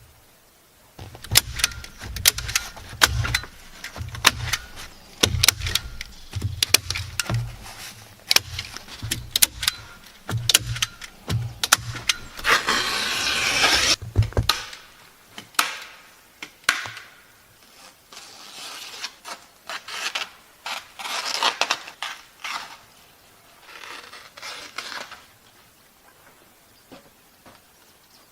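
Wood and tools being handled during shelter building: a run of sharp knocks and clatter, a short harsh rasp about halfway through, then softer scraping and rubbing.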